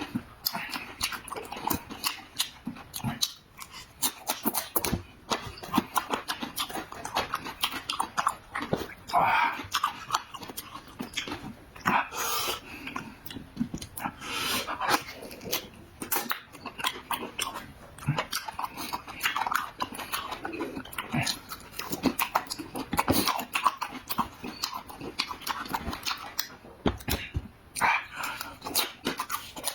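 Close chewing and lip-smacking of a person eating: a dense, continuous run of wet clicks and smacks with a few short squeaky sounds.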